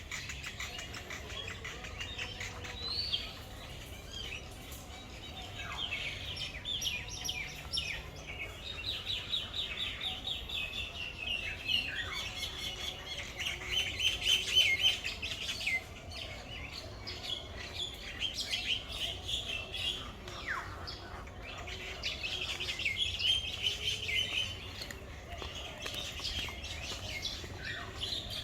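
Many small birds chirping and twittering, in dense overlapping runs of quick high chirps.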